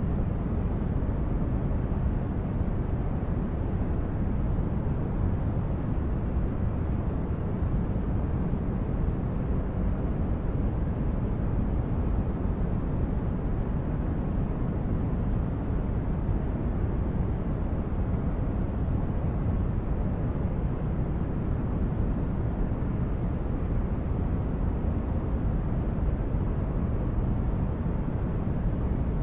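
Sci-fi spaceship ambience: a steady, deep rumbling drone of brown noise, like an engine hum heard inside a large ship, unchanging throughout.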